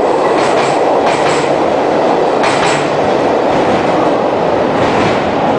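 Sleeper express train's coaches rolling past with a steady rumble, their wheels clacking over rail joints in quick pairs about once a second.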